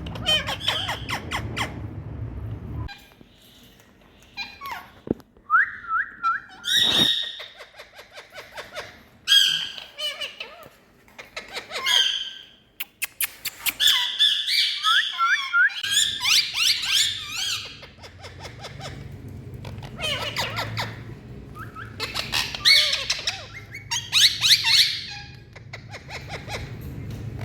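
Indian ringneck parrot squawking in a run of short repeated calls, some sweeping in pitch, with brief pauses between bursts.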